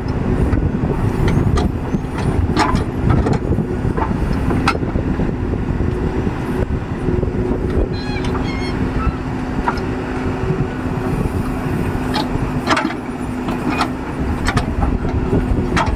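Diesel engine of a backhoe loader running at steady revs, a constant hum with a held tone, broken by several short sharp knocks.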